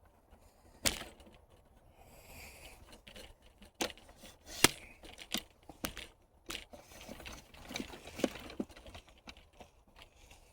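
Irregular sharp clicks and knocks close to the microphone, the loudest a little before the five-second mark, like handling noise from a camera or tripod being adjusted.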